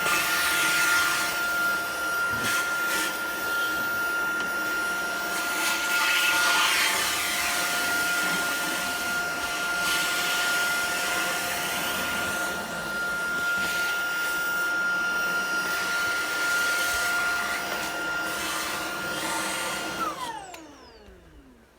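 Tineco cordless stick vacuum's motor running with the crevice tool attached, a steady high-pitched whine over a rush of air. About 20 seconds in it is switched off, and the whine falls in pitch as the motor spins down.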